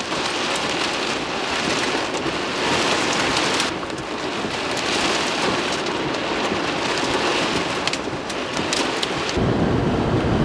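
Steady rain falling, with scattered sharp ticks of drops hitting something close by. About nine seconds in, a deeper, louder rumbling takes over.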